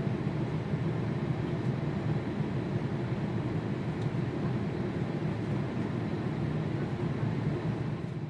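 Jet airliner engines running with a steady, even rumble.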